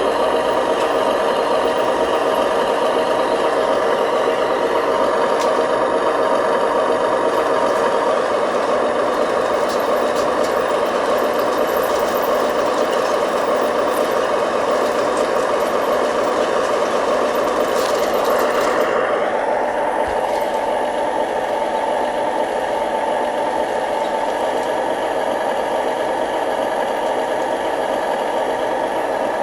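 Remote-control model construction machines running: a steady mechanical drone of small motors and gearing with held tones, which shifts about two-thirds of the way through as the high hiss drops away and a new steady tone comes in.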